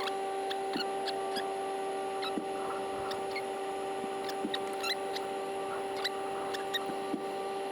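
A steady hum with faint, scattered small clicks and ticks of wires and small parts being handled during wiring work.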